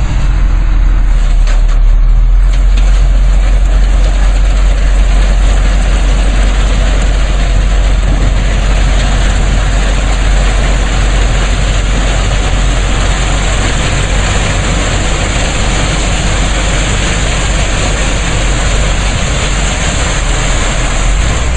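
A heavy truck's engine running steadily, with a strong low rumble under a loud, even roar of noise.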